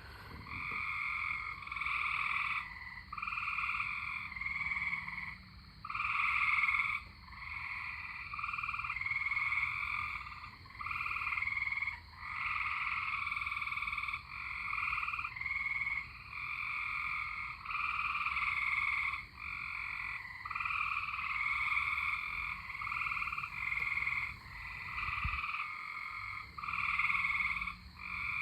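Chorus of tree frogs calling, many overlapping trills of about half a second to a second each, one after another without pause.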